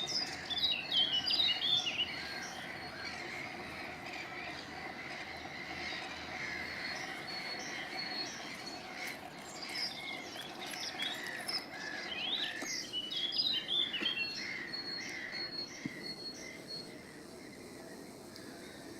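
Several wild birds calling and chirping, busiest in the first couple of seconds and again about two-thirds through, with a high note repeated evenly for several seconds, over a steady outdoor background hum.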